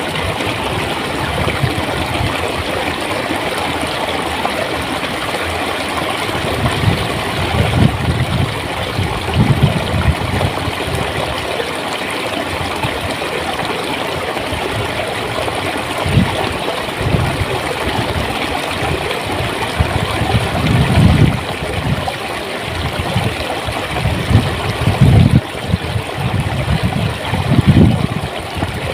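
Stream water running, a steady rushing with louder low gurgling pulses now and then, most of them in the second half.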